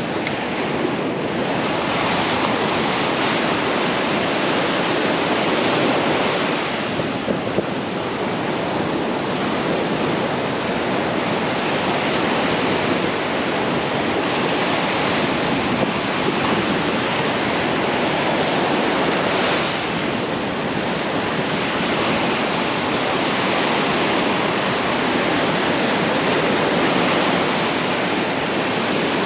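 Ocean surf breaking and washing onto a beach: a steady rushing noise that eases and swells every several seconds, with wind buffeting the microphone.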